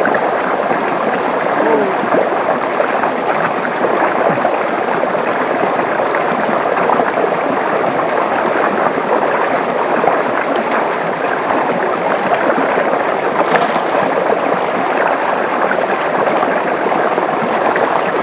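A river rushing over rocks, a steady, loud, unbroken flow.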